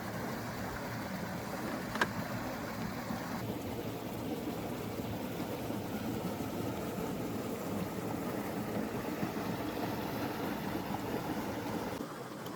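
Valley stream rushing steadily over rocks, with a single sharp click about two seconds in.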